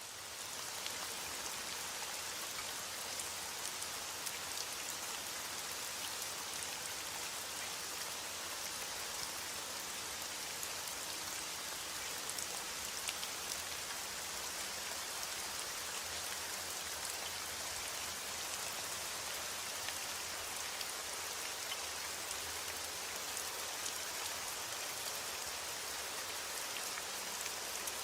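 Steady rain falling, dense with fine, sharp drop hits, fading up in the first second and then holding even.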